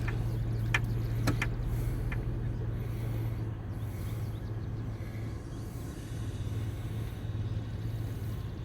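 A motor vehicle engine idling steadily with a low hum, with a few light clicks or knocks in the first couple of seconds.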